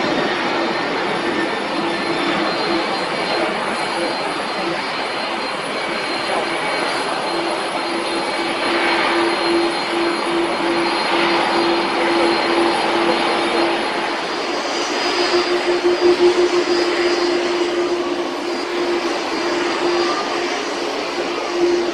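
Jet engines of a four-engine Boeing 747-400 freighter running, a steady noise with a held droning tone.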